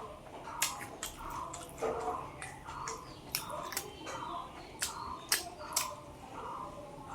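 A person chewing food with wet mouth clicks and smacks, a sharp click every second or so over steady chewing.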